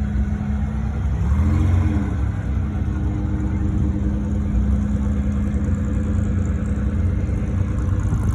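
Car engine idling steadily, revved briefly once about a second in, then settling back to idle.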